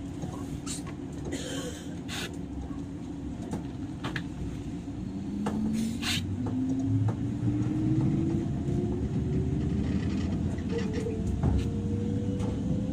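JR West 103-series electric train, heard from inside motor car MoHa 103-773, pulling away and accelerating. Over the running rumble, the traction motor whine climbs steadily in pitch from about five seconds in. Several sharp clicks come in the first half.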